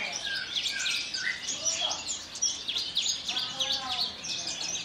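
Javan bush lark (branjangan) singing a fast, unbroken string of varied high chirps, trills and short whistled notes.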